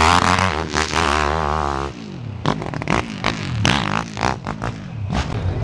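Motorcycle engine revving, its pitch wavering up and down, then dropping back about two seconds in, leaving a lower engine note with scattered clattering.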